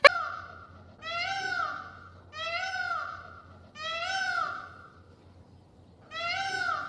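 An animal giving a series of drawn-out calls, each about a second long and rising then falling in pitch, over a faint steady low hum.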